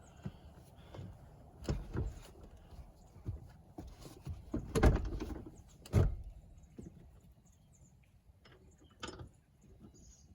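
Scattered clicks and knocks of hard parts being handled, as when working a car seat belt buckle mechanism; the loudest knocks come about five and six seconds in, with lighter ones around two seconds and near the end.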